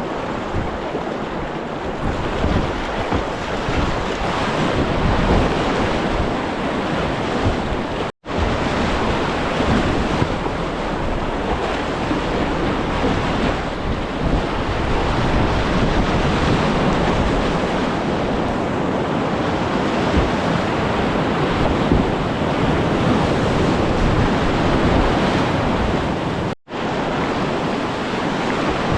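River whitewater rushing steadily, with wind buffeting the microphone. The sound cuts out briefly twice, about eight seconds in and near the end.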